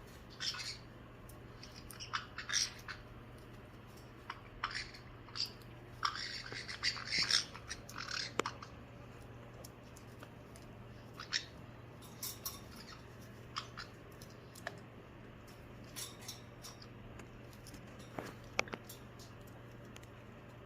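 Caique parrots giving short, scattered squawks and chirps while play-fighting, busiest about six to eight seconds in.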